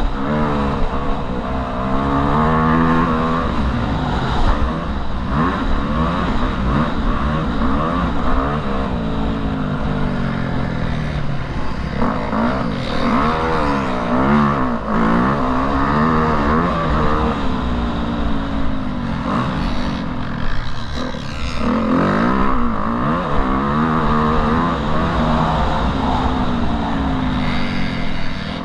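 Motocross bike engine riding hard, its pitch rising and falling again and again as the throttle is opened and closed through the gears.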